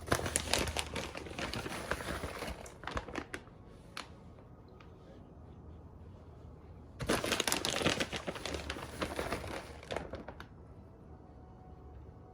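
Plastic bag crinkling in two stretches, the first right at the start and the second about halfway through, as shredded cheese is shaken out over the casserole.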